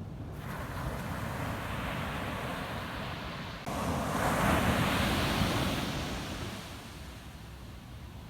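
Ocean waves breaking on a beach: the surf swells, surges abruptly louder a little past halfway as a wave breaks, then washes out and fades.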